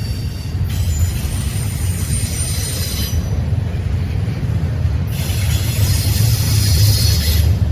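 Train rolling past with a steady low rumble of wheels on rail. High-pitched wheel squeal comes in twice: from about one to three seconds in, and again from about five seconds until near the end.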